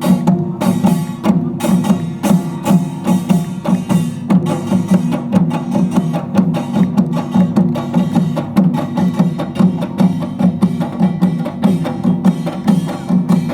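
Utdari-style samul nori ensemble playing: kkwaenggwari small gong, janggu hourglass drum, buk barrel drum and jing large gong beating out a fast, dense rhythm.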